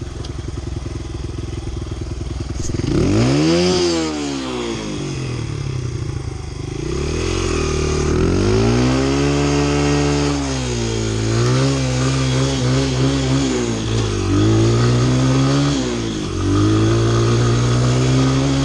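Honda CRF100 dirt bike's four-stroke single-cylinder engine idling, blipped once about three seconds in, then revved high and held for a burnout, the revs dipping and climbing back several times.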